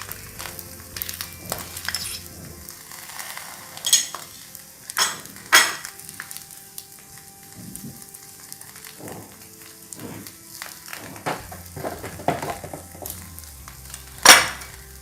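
Egg and rice paper sizzling over low heat in a pan with a little oil while scallion oil is spooned on. A few sharp clinks of a utensil against the pan or bowl; the loudest comes near the end.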